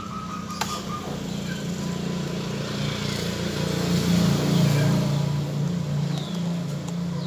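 A motor vehicle engine running as a steady low hum, growing louder towards the middle and easing off towards the end, as of a vehicle passing by.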